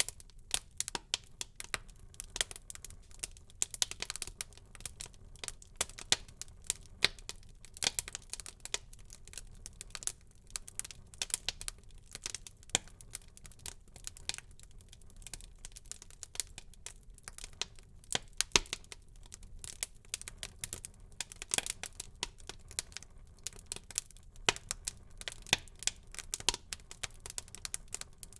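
Wood fire burning in a fireplace, crackling with a steady stream of irregular sharp snaps and pops.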